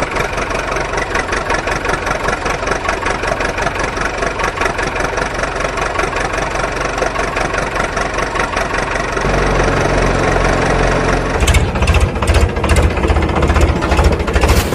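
Heavy vehicle engine running with a fast, even chugging beat. About nine seconds in it deepens, and from about eleven and a half seconds it turns louder and rougher, with uneven heavy knocks.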